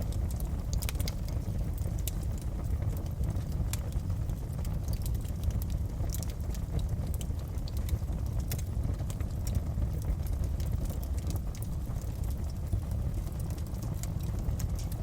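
Wood fire crackling in a fireplace: irregular sharp pops and snaps over a steady low rush of the burning fire.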